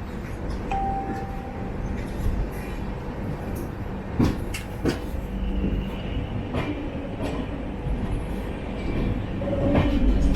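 A moving LHB passenger train heard on board: a steady low rumble of wheels on rail, broken by irregular sharp clicks and knocks from the wheels and running gear.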